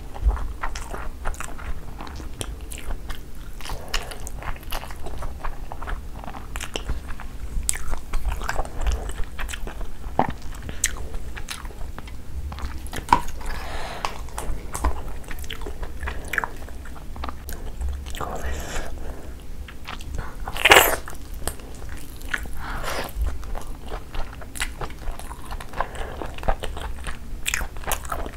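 Close-miked chewing and biting of a person eating rice, egg curry and tandoori chicken by hand, with frequent short clicks throughout and one louder sharp sound about two-thirds of the way through.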